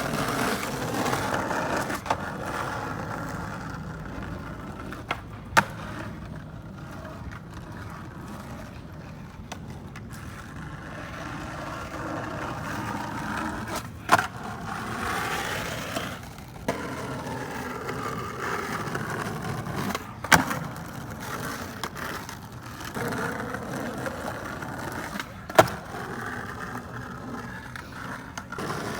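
Skateboard rolling on pavement: a steady wheel rumble and whir that rises and falls in pitch with speed, broken by about six sharp clacks of the board, the loudest near the end.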